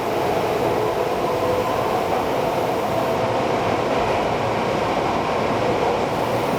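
Tokyo Metro 8000 series subway train running at speed through a tunnel, heard from inside the car. It gives a steady rumble of wheels on rail with a constant hum.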